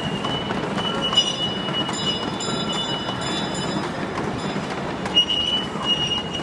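Children's choo-choo train ride in a mall going past, with a high steady tone that comes and goes over steady background noise, and several high tones sounding together for a second or so in the middle.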